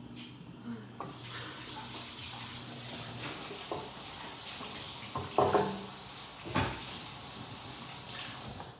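Kitchen or bathroom tap running into a sink while hands are washed, with a few knocks about five and a half and six and a half seconds in. The water is shut off just before the end.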